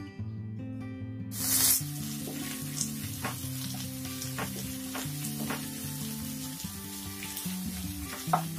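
Onions frying in hot oil in a nonstick pan, sizzling steadily as a spatula stirs them, with a few scrapes and knocks of the spatula against the pan. The sizzling cuts in with a loud burst about a second in.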